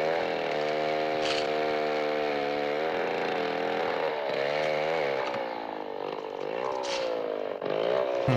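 Buzzy, distorted sustained drone from the film's soundtrack, held steady at first, then sliding down and back up in pitch a few times.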